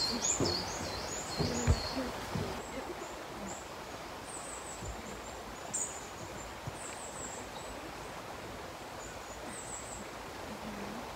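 A small bird chirping high and quickly, about three chirps a second at first, then only now and then. In the first couple of seconds a few knocks sound as rocks and earth are worked by hand, one of them sharp and loud.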